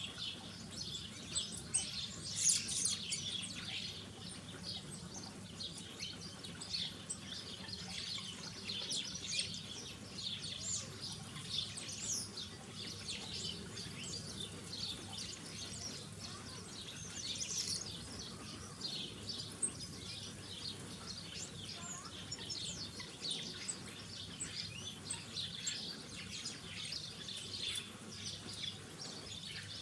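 Small garden birds chirping and twittering without pause, many short high calls overlapping, over a faint low steady hum.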